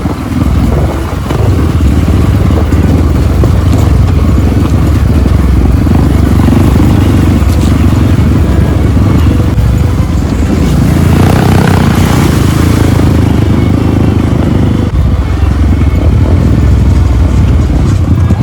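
Trail motorcycle engine running while riding, with a louder, brighter stretch about eleven seconds in.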